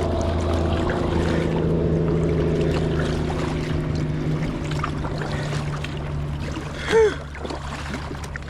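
A steady low motor drone that fades out over the first half, over faint water noise around a kayak. About seven seconds in comes a short falling vocal sound.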